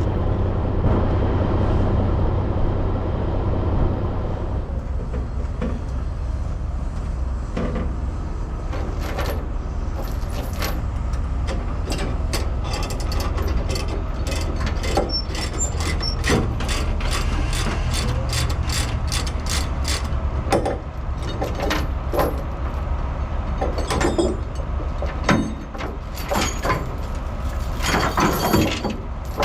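Ratchet chain binders being cranked loose, with quick runs of metallic clicking and chain clanking that grow busier in the second half, over an engine idling steadily.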